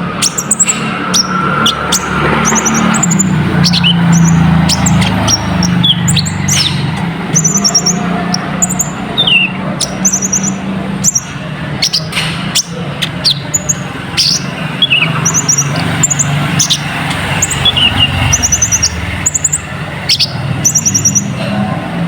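Konin (kolibri ninja sunbird) singing a fast, high twittering chatter of short repeated trills and chirps, over a steady low hum.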